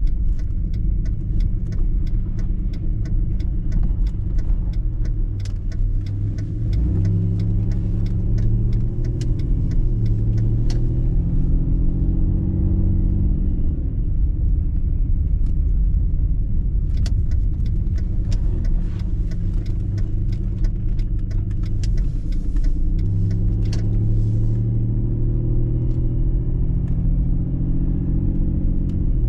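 Car driving, heard from inside: a steady low rumble of engine and road noise, with a changing engine hum and stretches of rapid sharp clicks and ticks.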